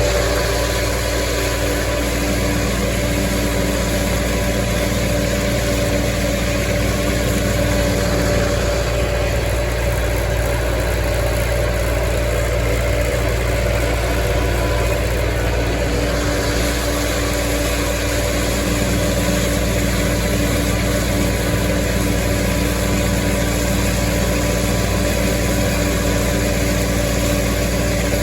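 Massey Ferguson 165 tractor engine running steadily while mowing hay, with a constant, even drone.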